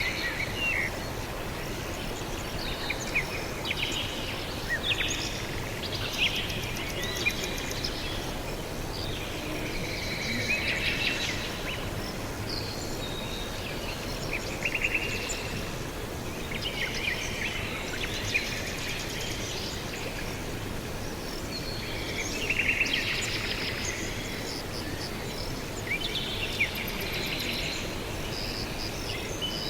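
Several small birds chirping and trilling in repeated short phrases over a steady background hiss of outdoor ambience.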